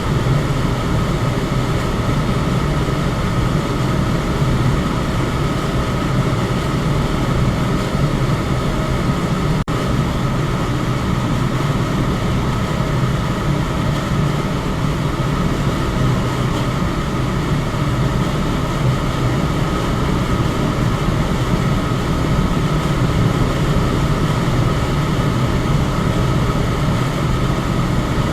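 Electric fan running steadily: a constant whooshing noise, heaviest in the low range, with a faint steady tone above it. A momentary dropout about ten seconds in.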